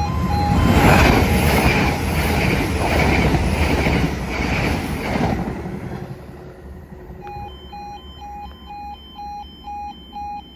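A train passing over a level crossing, its wheels clattering rhythmically for about six seconds before it fades. Throughout, the crossing's E2S warning alarm beeps in a repeating two-tone pattern, heard clearly again once the train has gone by.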